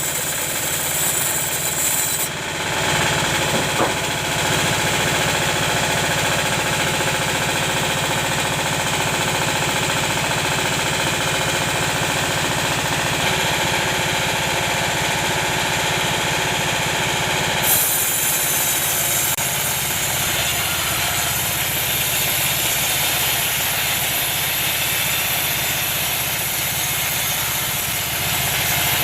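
Sawmill machinery running steadily with a loud, even mechanical noise. The tone shifts about two seconds in and again about two-thirds of the way through.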